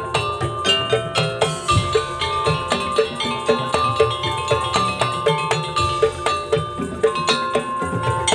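Madurese daul (tongtong) percussion ensemble playing: struck metal and mallet percussion with wooden slit drums and drums keeping a quick, steady beat, with sustained pitched notes over the top.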